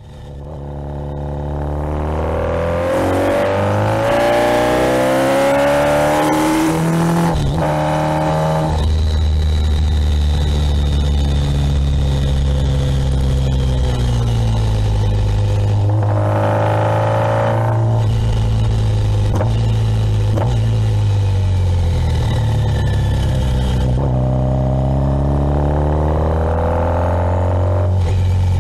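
Kawasaki Ninja 1000SX inline-four engine, heard from the rider's seat, fading in and then pulling through the gears: the revs climb and drop at several upshifts, with wind rush.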